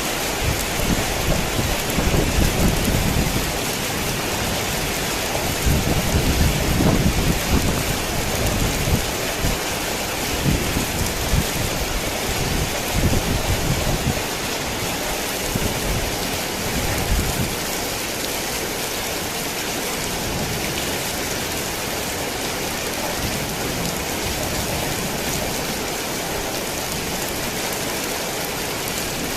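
Heavy rain falling steadily, with thunder rumbling in several low swells through the first half, dying away about two-thirds of the way through and leaving the rain alone.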